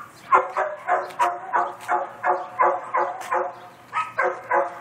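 Dog barking over and over at a quick, even pace, about three high-pitched barks a second, with a short pause about four seconds in.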